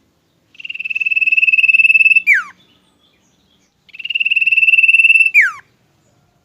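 Common iora (cipoh) giving its long trill twice: a rapid trill held on one high pitch for nearly two seconds, growing louder, then ending in a quick downward slur.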